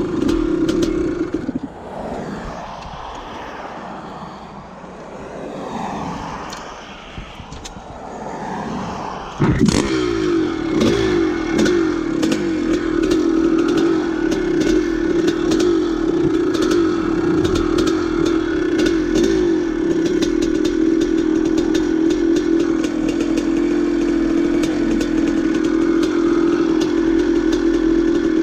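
Vintage dirt bike engine running under way. It drops to a quieter, uneven sound after a second or two, then after a sharp knock about nine seconds in runs loud and steady again, with small clattering clicks from the trail.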